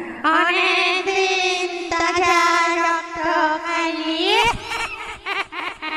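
A high, wavering sung or wailing voice with heavy vibrato, holding several long notes broken by short pauses, with a rising swoop about four seconds in.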